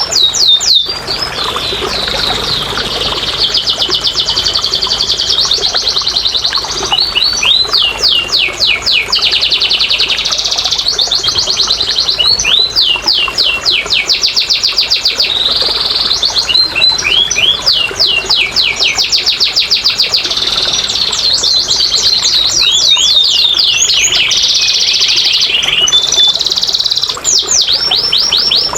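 Domestic canary singing a continuous, loud song of rapid trills. Fast runs of repeated notes and sweeping phrases each last a second or two before giving way to the next. It is a lure song, played to prompt a canary that is reluctant to sing.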